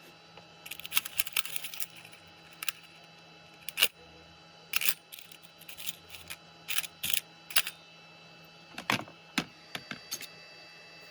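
Irregular clicks and short rattles of tools and small parts being handled during the teardown of a Makita circular saw: a quick run of clicks about a second in, then single knocks and clicks spread through the rest, over a faint steady hum.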